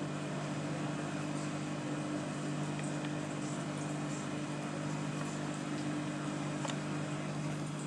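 A steady low mechanical hum with a few faint, scattered clicks over it.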